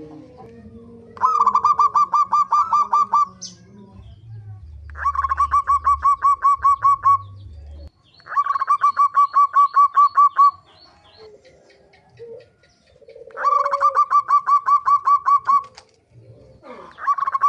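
Zebra dove (perkutut) giving its rapid 'pikat' call: bouts of about two seconds of quick, evenly repeated notes, roughly six a second. There are four bouts, with a fifth starting near the end.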